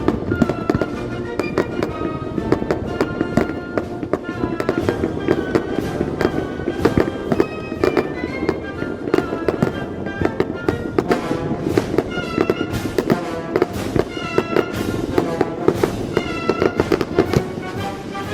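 Fireworks bursting and crackling, with background music playing throughout.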